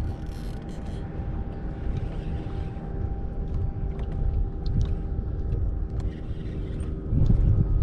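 Wind buffeting the microphone, a rough, gusting rumble over a steady motor hum, growing louder about seven seconds in.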